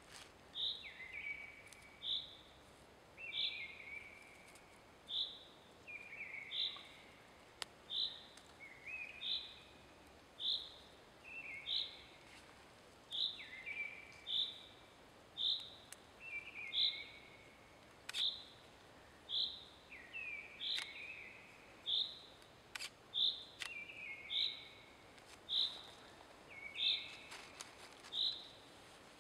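A songbird singing in a steady repeated pattern: a short high note about once a second, with lower, falling notes slipped in between. A few faint clicks sound now and then.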